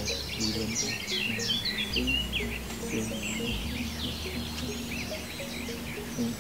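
Songbirds chirping and singing, many quick overlapping calls, over a low steady background with an on-and-off low rumble.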